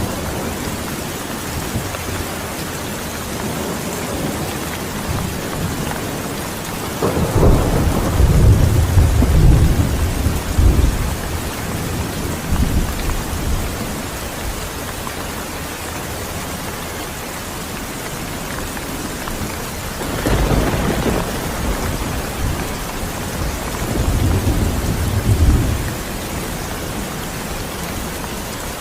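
Steady heavy rain with two long low rolls of thunder, the first about a quarter of the way in and the second about two-thirds of the way through.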